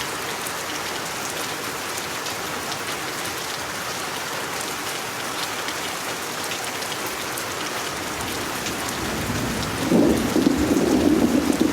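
Steady heavy rain hissing, with fine patter of drops. About nine seconds in, a low rumble of thunder swells up and is loud by the end.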